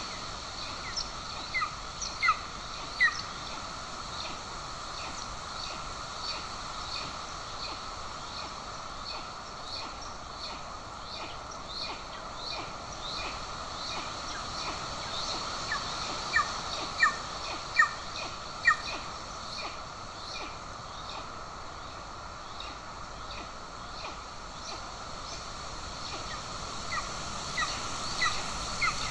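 Golden eagle giving short, high chirping calls in irregular runs, loudest in a cluster a little past the middle, over a steady outdoor hiss.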